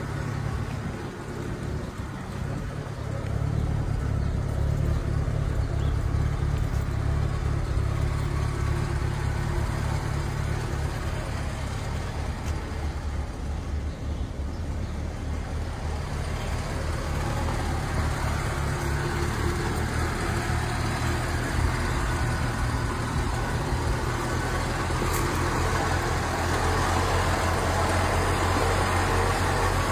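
A car's 2.3-litre Ford four-cylinder engine running steadily, with a low, even note that gets louder about three seconds in. A hiss builds over it in the second half.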